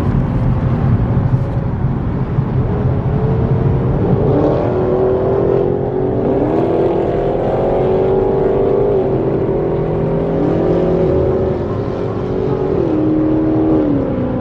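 V8 muscle-car engines pulling hard under acceleration, more than one engine at once. Their pitch climbs steadily and drops sharply at each upshift, a few times over, around the middle and near the end.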